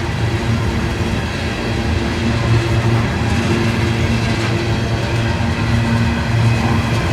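Train running past with a steady low engine drone over rail and wheel noise.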